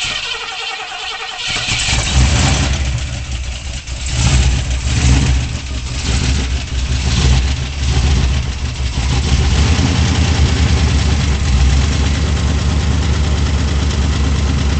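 Engine being started: it cranks, catches about a second and a half in, is revved up several times, then settles into a steady idle.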